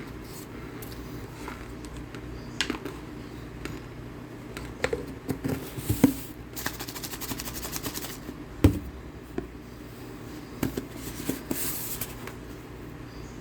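Chewing and crunching of cornstarch in the mouth: scattered sharp crunches, with a quick run of fine crackles a little past the middle.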